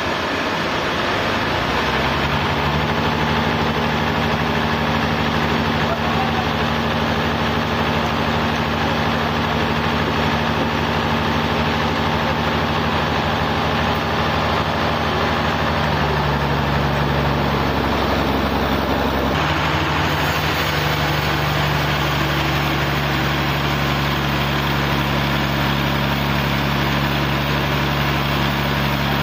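Sawmill engine running steadily at a constant speed, with a sudden change in its sound about two-thirds of the way through.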